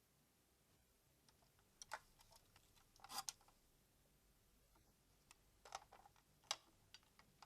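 Faint, scattered clicks and clacks of the plastic Engine Jumbowhale toy being handled, in small clusters with pauses between.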